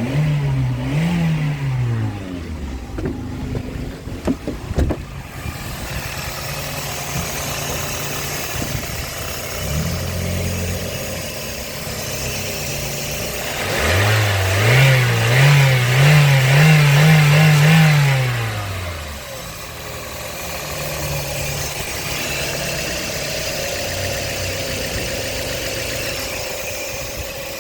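Toyota 1NZ-FE 1.5-litre inline-four petrol engine being test-run to check its condition. It is blipped up and back down in the first few seconds, settles to idle, is then held at raised revs for about five seconds from halfway, the loudest part, and drops back to a steady idle.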